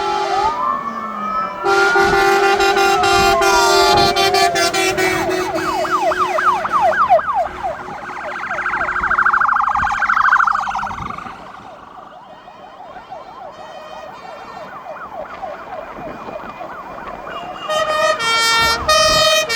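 Several fire engine sirens sounding together as a convoy of fire trucks drives past: slow wailing glides and steady blaring tones at first, a fast yelp from about five seconds in, quieter in the middle, then a pulsing siren tone near the end.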